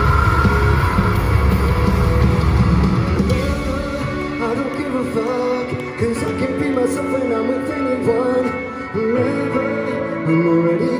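Live rock band playing loudly with a heavy low end. About three seconds in, the drums and bass drop away, leaving singing voices over sustained guitar.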